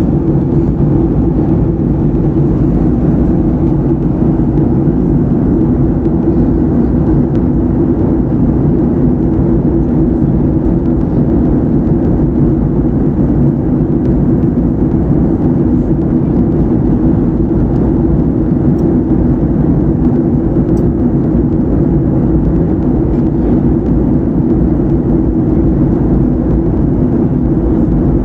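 Steady low drone of an airliner's jet engines and airflow heard inside the cabin, even and unchanging throughout.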